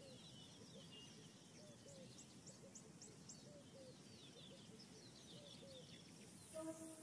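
Faint bird calls in a quiet outdoor ambience: many short chirps repeating, some low and some high-pitched. Music comes in near the end.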